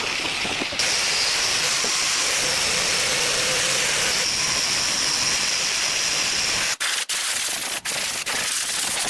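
A steady, loud hiss of gas or air jetting from a tool, broken by several abrupt short dropouts in the second half.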